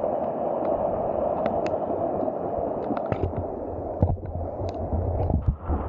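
Rushing floodwater, a steady dense noise, with scattered small knocks and low thuds over it.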